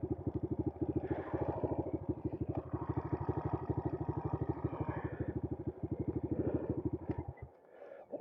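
Bashan Brozz 250 dual-sport motorcycle's single-cylinder four-stroke engine idling with an even putter of about a dozen beats a second, then shut off, cutting out abruptly near the end.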